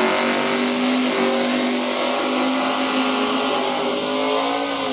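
Car engine at full throttle on a drag strip pass, its pitch held high and climbing slowly, then starting to drop right at the end as the throttle comes off.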